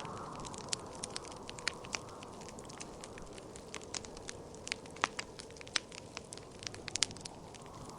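Wood fire crackling, with many sharp irregular pops and snaps, over a steady whooshing wind that swells near the start.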